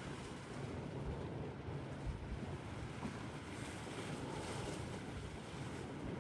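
Wind buffeting the microphone: a steady, gusty low rumble with no distinct aircraft engine or other event standing out.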